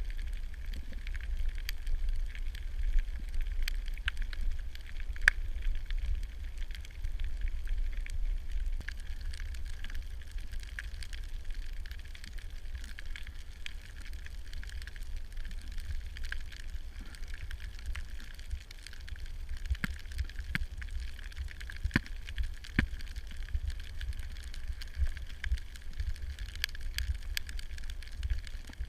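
Underwater ambience picked up through a camera housing: a steady low rumble with scattered sharp clicks and crackles.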